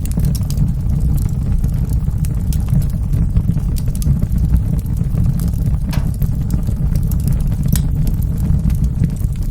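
Fireplace fire burning with a steady low rumble and scattered sharp crackles and pops, one louder pop about six seconds in.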